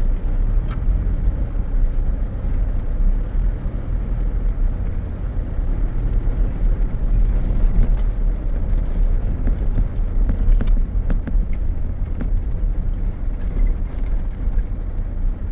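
High-clearance 4WD driving slowly over a rough dirt track, a steady low rumble of engine and tyres with occasional light knocks and rattles.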